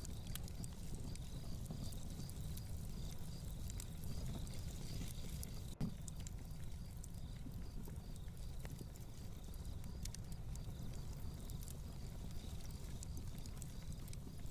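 Fireplace crackling: scattered sharp pops over a steady low rumble, with one louder pop about six seconds in. A faint, rapid, regular ticking runs underneath.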